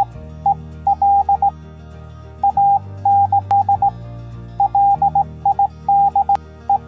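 Morse code beeps: one steady tone keyed in short dots and longer dashes, spelling out several letters in groups, over background music with a low, steady bass.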